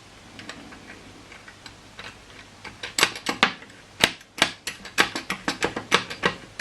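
A run of sharp, irregular clicks and ticks, about three a second, starting a little under halfway in, from small hard parts being handled while the methylated-spirit burner is readied.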